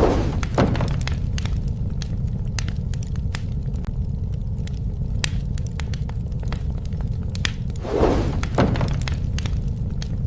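Wood fire burning, with a steady low rumble of flames and frequent sharp crackles and pops. Twice, at the start and about eight seconds in, a louder two-part falling whoosh stands out above the crackling.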